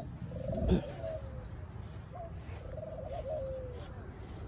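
Domestic pigeon cooing: two rolling coos, each opening with a short note. A single thump sounds just under a second in.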